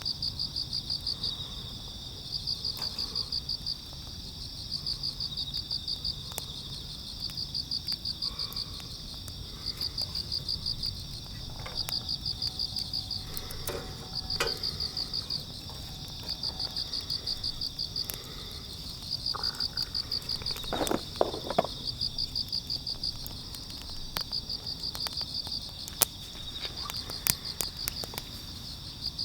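Crickets chirping in high-pitched trills of about a second each, repeating every two seconds or so, over a steady higher ring from other insects. Occasional sharp clicks sound through it.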